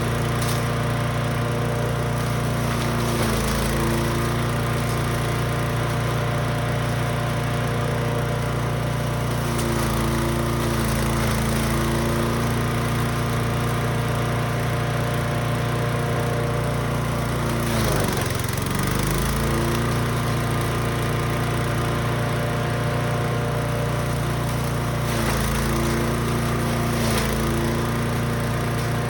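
Brush Master 3-in-1 wood chipper/shredder's small gas engine running loud and steady, its pitch dipping briefly about four times as it takes load, deepest a little past halfway.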